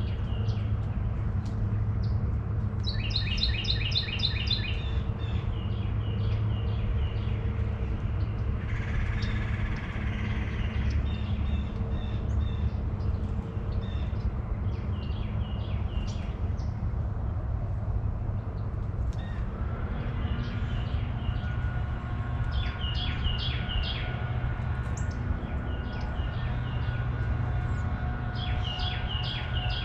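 Songbirds chirping and calling in short repeated phrases, with one buzzy call about a third of the way through, over a steady low hum.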